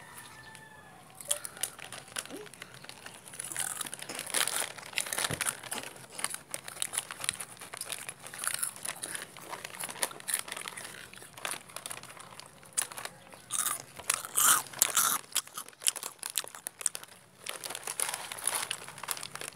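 Crunchy food being bitten and chewed close to the microphone: many irregular sharp crunches, some in quick runs.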